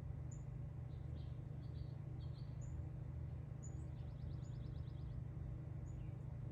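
Small birds chirping in short high notes about once a second, with a quick rattling trill about four seconds in, over a steady low hum.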